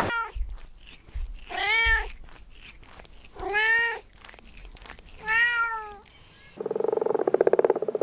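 A cat meowing three times, each meow rising and then falling in pitch, about two seconds apart. Near the end a different, rapidly pulsing animal call takes over.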